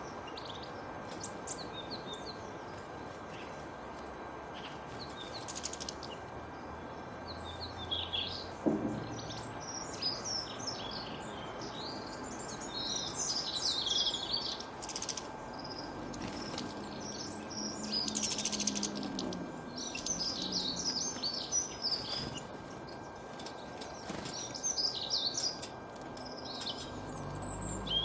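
Small songbirds chirping and twittering in quick, overlapping runs of short high notes, over a steady background hiss.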